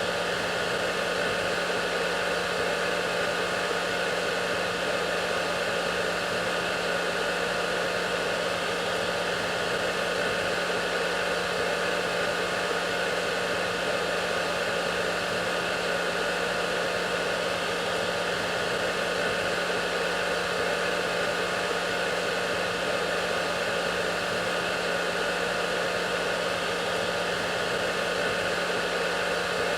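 Hair dryer running steadily: a constant airy rush with a fixed motor hum, unchanging throughout.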